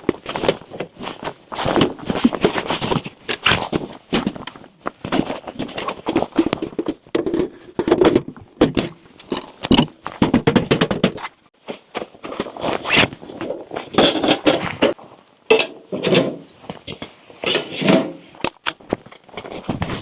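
Irregular run of knocks, thunks and scrapes, as of things being handled and set down.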